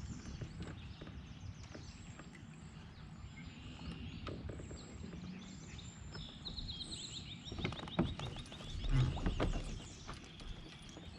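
Outdoor creek ambience: a steady low rumble with faint high animal chirps and a fast, high trill of rapidly repeated notes about six seconds in. A few knocks come near the end.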